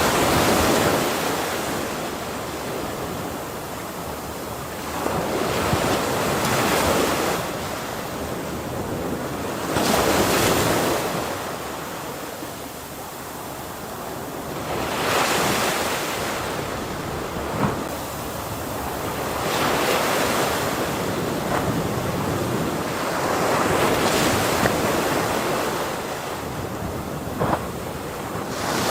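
Ocean waves breaking on a shore, a swell of surf about every five seconds with hissing wash in between, with some wind noise on the microphone.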